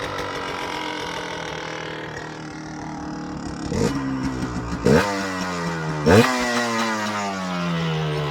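Yamaha DT 125 R two-stroke single running steadily, then blipped three times about four, five and six seconds in, the revs shooting up and sliding back down after each blip.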